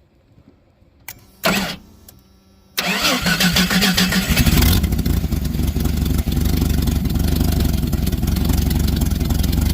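Cold start of a high-mileage Chevrolet plow truck's engine in the snow: a brief burst of cranking, then the engine catches with a flare of revs and settles into a steady idle. It idles only with a vacuum line unplugged; the owner suspects a dirty air cleaner.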